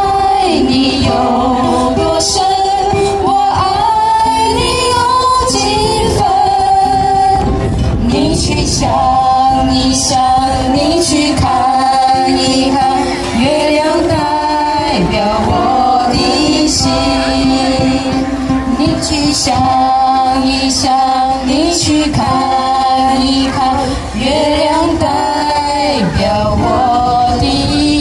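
Women singing a melody with held, wavering notes to ukulele accompaniment.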